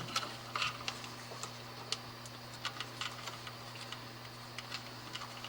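Scattered small clicks and light taps of electrical wires being handled and moved around, over a steady low hum.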